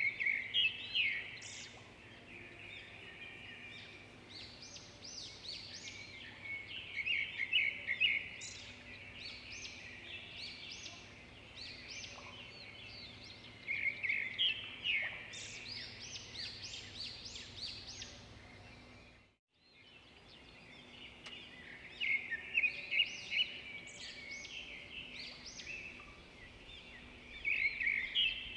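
Swiftlets chirping and twittering, the high calls swelling into louder clustered bouts every several seconds. The sound cuts out briefly about two-thirds of the way through.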